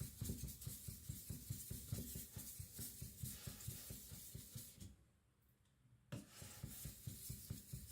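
Flat side of a Victorinox Chinese cleaver scrubbed back and forth on a Naniwa Aotoshi 2K whetstone under heavy hand pressure, a rhythmic scraping of a few strokes a second. The strokes stop for about a second around five seconds in, then resume. This is the polishing stage, taking the coarse 400-grit scratches off the blade face.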